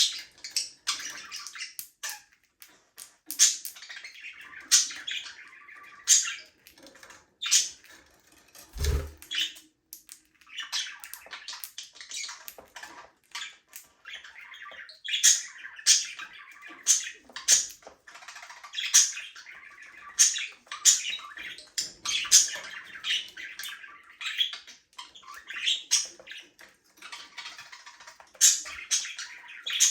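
Budgerigars chattering: a continuous warbling chatter broken by many sharp, high chirps, with one dull low thump about nine seconds in.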